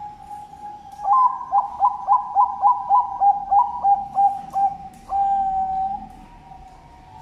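Zebra dove (perkutut) cooing: a quick run of about a dozen short clipped notes over about four seconds, ending in one long held note. A fainter drawn-out coo sits beneath it.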